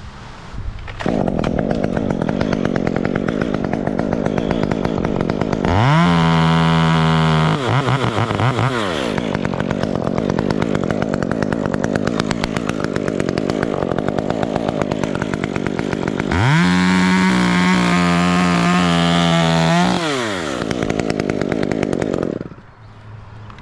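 Two-stroke chainsaw idling, then revved up to full speed twice, briefly the first time and for about four seconds the second, each time dropping back to idle. It falls quiet near the end.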